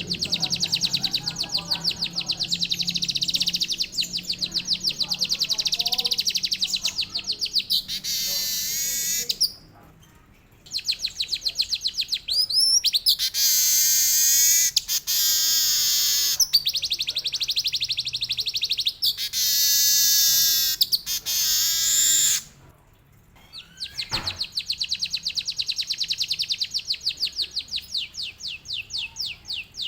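Manyar (weaver bird) singing: long, fast, rattling trills alternating with warbled, canary-like phrases of sweeping notes, broken by two short pauses.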